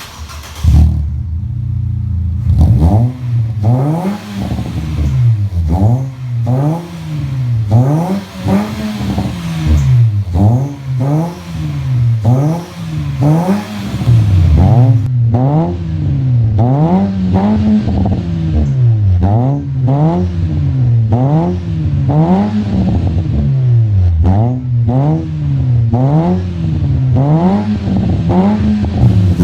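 Nissan Almera car engine heard through a full aftermarket exhaust system, revved again and again in short blips, its pitch climbing and dropping about once every second and a half. The sound comes in suddenly about a second in.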